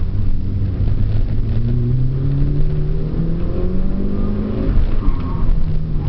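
Mitsubishi Lancer Evolution IV's turbocharged 2.0-litre inline-four pulling hard, its pitch rising steadily for about four seconds as the revs climb, then dropping sharply about five seconds in.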